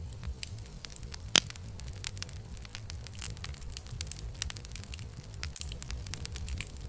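Campfire crackling: a dense run of small pops and snaps over a low, steady rumble, with one sharp, much louder pop about a second and a half in.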